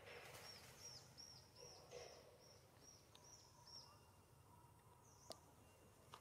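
Faint bird calls: a quick run of short, high, arched chirps, about three a second, that stops about halfway through. A single sharp click comes near the end.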